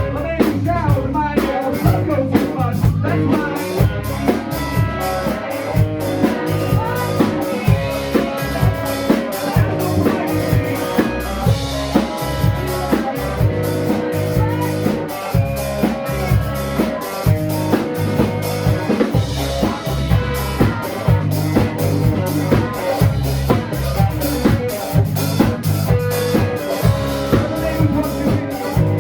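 Live band playing an instrumental passage: a drum kit keeps a steady beat under bass and sustained instrument notes, with no singing.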